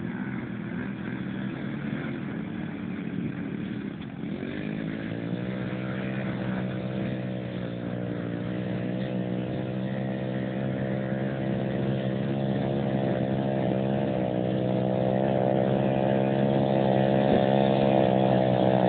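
Pit bike engine running at a steady pitch, growing gradually louder over the last two thirds as it draws nearer, after a rougher, noisier start.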